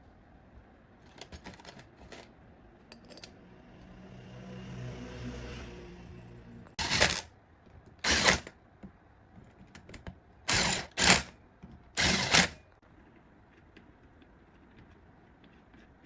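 Workshop sounds from restoring a generator: a few light clicks, a brief hum that swells and fades, then five short loud hissing bursts.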